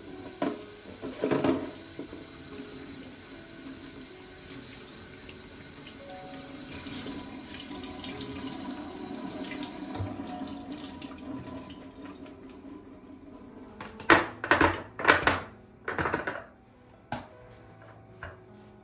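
Kitchen tap running into a sink, with a couple of clatters about a second in and a quick run of loud knocks and clatters near the end as the water stops.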